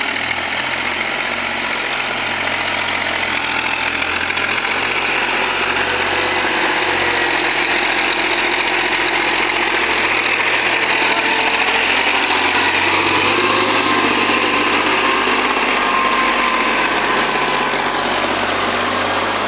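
Tractor engine running steadily, swelling a little louder around the middle and easing slightly near the end.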